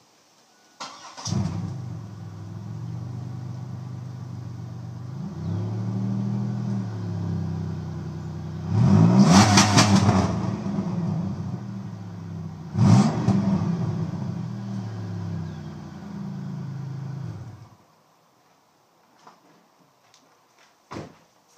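Supercharged 3800 V6 of a 2002 Pontiac Grand Prix GTP running through a straight-piped exhaust: it starts about a second in, idles, is revved hard twice, and is shut off suddenly a few seconds before the end.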